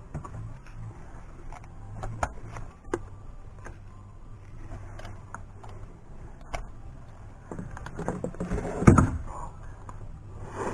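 Irregular metallic clicks and clinks of hand tools working at a spark plug in the engine bay, with a louder clunk and rustle about nine seconds in, over a faint steady low hum.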